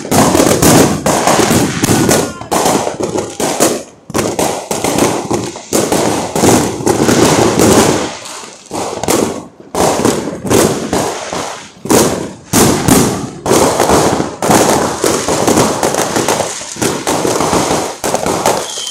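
Many fireworks and firecrackers going off in rapid, overlapping succession, a near-continuous barrage of loud bangs and crackling pops with only a few brief lulls.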